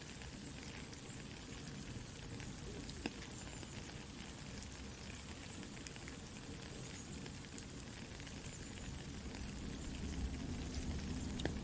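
Soft steady rain together with a crackling campfire: an even hiss with scattered sharp pops and ticks. A low rumble swells near the end.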